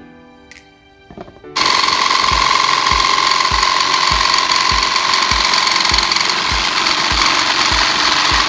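A power tool running at a steady speed, starting abruptly about a second and a half in, with a strong steady whine in its noise. It plays over background music with a steady beat.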